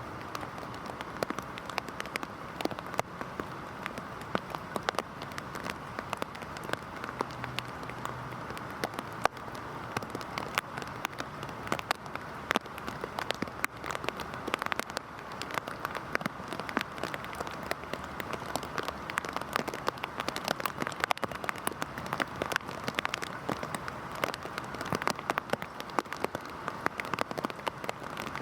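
Heavy rain falling steadily, a constant patter dense with sharp individual drop hits landing on a hard surface.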